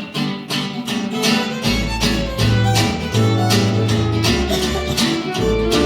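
Live western band playing the instrumental intro of a cowboy song: acoustic guitar strummed in a steady rhythm with fiddle over it. Deep bass notes join about two seconds in.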